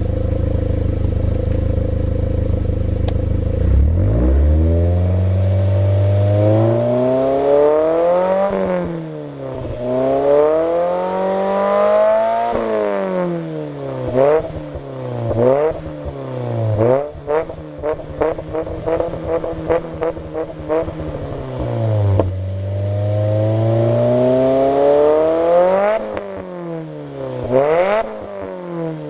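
Nissan S15 Silvia Spec R's turbocharged SR20DET four-cylinder through an aftermarket exhaust (GP Sport manifold, straight pipe, GP Sport EXAS F1 muffler). It idles steadily for about four seconds, then is revved up and down repeatedly: several rising and falling sweeps, a held note in the middle, a long climb, quick blips near the end, then a fall back down.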